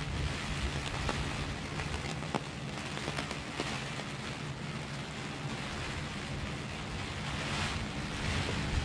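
Heavy rain falling on a clear plastic umbrella held overhead, a steady hiss with single drops ticking sharply on the canopy now and then, over a low rumble.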